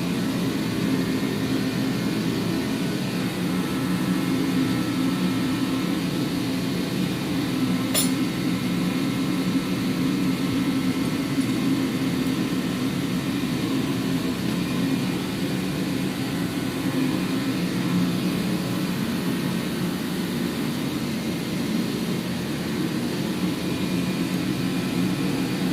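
Steady mechanical hum of a running fan unit, with a single sharp click about eight seconds in.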